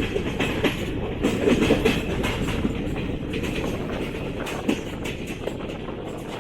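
Garib Rath Express AC 3-tier coach running at low speed, just after starting off from a halt: a steady rumble from the running gear, with irregular clicks and knocks from the wheels.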